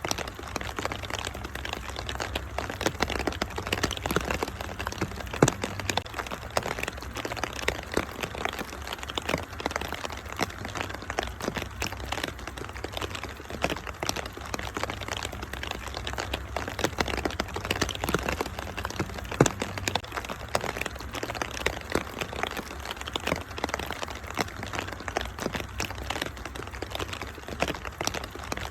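Wood fire crackling in a fireplace, a dense run of irregular pops and snaps, two sharper ones about five seconds in and near two-thirds of the way, over a steady hiss of rain.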